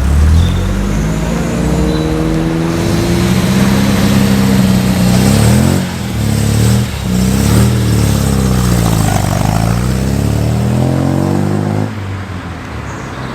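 Car engine accelerating away, rising in pitch through the gears with a break for a gear change about six seconds in, then falling in pitch and fading near the end.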